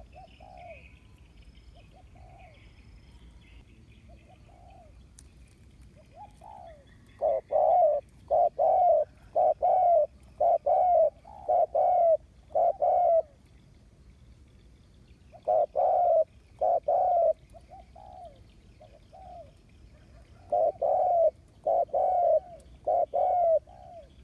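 A decoy male spotted dove cooing: phrases of low, repeated coos, soft at first and then in loud bouts with short pauses between them. This is the calling used to provoke and lure wild doves.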